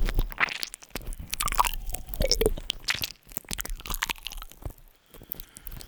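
Close-up wet kissing and lip sounds: many short smacks and clicks, with a short voiced breath falling in pitch about two seconds in.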